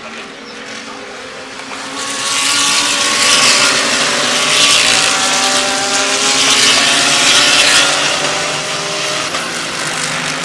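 GT3 race cars running past at speed, several engines overlapping at different pitches; the sound swells about two seconds in, stays loud for several seconds as the cars go by, then fades.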